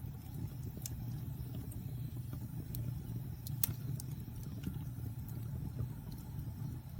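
Fire burning in a fireplace: a steady low rumble with scattered sharp crackles and pops, the loudest about three and a half seconds in.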